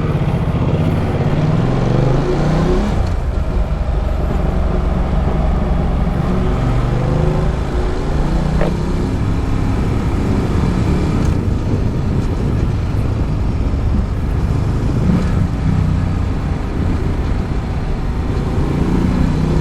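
Ducati Multistrada 1200's V-twin exhaust, picked up close to the exhaust, as the motorcycle pulls away. The engine note rises over the first few seconds, then runs on steadily with the pitch shifting up and down as the bike is ridden.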